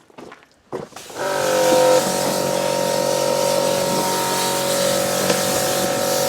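Pressure washer running with a steady hum and the hiss of the spray. It is nearly silent for the first second, then starts up again about a second in and runs steadily.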